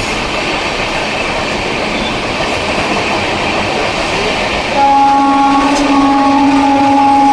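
Passenger train running on rails with a steady rolling rumble. About two-thirds of the way in, the electric locomotive's horn sounds one steady multi-tone blast, about three seconds long, louder than the running noise.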